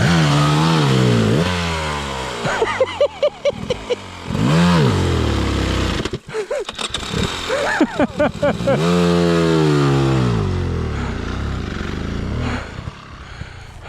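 Off-road trail motorcycle engine revved hard in repeated surges, its pitch climbing and falling as the rider works the throttle through difficult, slippery ground. There is a quick series of short throttle blips about three seconds in, and the engine drops away briefly around the middle before surging again.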